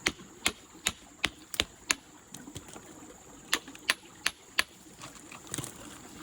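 A series of sharp clicking taps, about two to three a second, in two runs with a pause of about a second and a half between, then a quick cluster near the end, over the faint steady rush of a stream.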